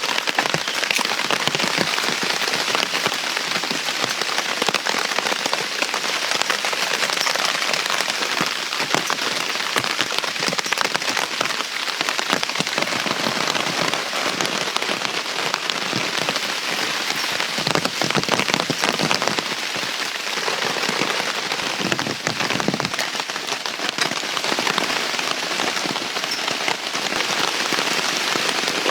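Heavy rain falling steadily, countless separate drops striking a surface.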